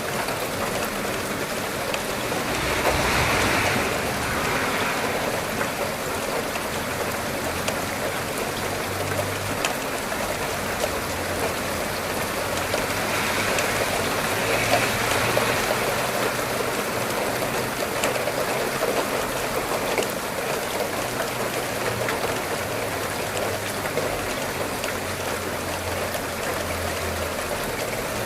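Steady rain falling, a dense even hiss that swells briefly a few seconds in and again about halfway through.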